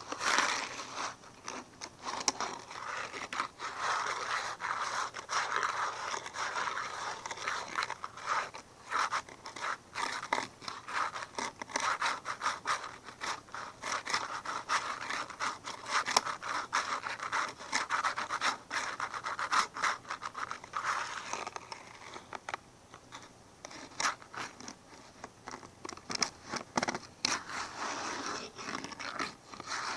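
Continuous close-up scratching and scraping, broken by many small clicks, with a quieter stretch about two-thirds of the way through.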